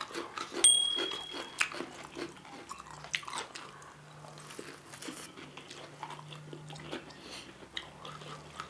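Close-miked eating: chewing and biting with wet mouth clicks and small crunches. About a second in, a short high electronic chime from a subscribe-button animation.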